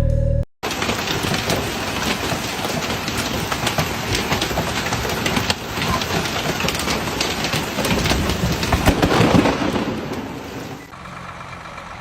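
Blizzard wind buffeting the microphone: a loud, rough rushing noise with crackle. About eleven seconds in it drops to a quieter steady hum.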